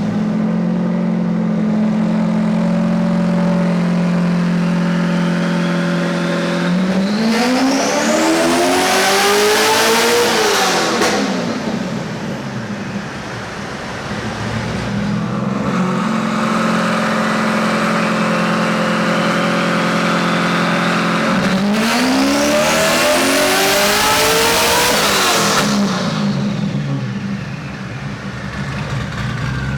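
Rear-mounted twin-turbo 7.0-litre LS7 V8 of a C6 Corvette Z06 making two full-throttle pulls on a chassis dyno. Each pull rises steadily in pitch for about four seconds and then cuts off sharply, falling back to a steady running note in between.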